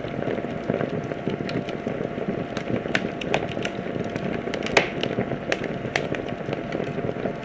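Wood fire crackling in a fireplace: a steady bed of fine crackle with frequent sharp pops, a louder pop about five seconds in.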